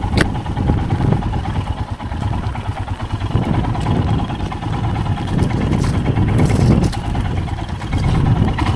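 Royal Enfield Himalayan's single-cylinder engine running as the motorcycle pulls away, building up from about three seconds in, with a sharp click just after the start.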